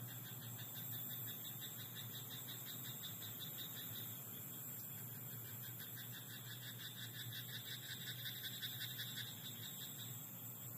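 Frogs croaking in a rice paddy at night: overlapping trains of rapid, evenly pulsed calls that swell and fade over a few seconds, over a steady high insect trill.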